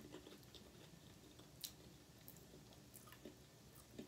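Near silence with faint closed-mouth chewing of crunchy oat cereal puffs, and a single sharper click about a second and a half in.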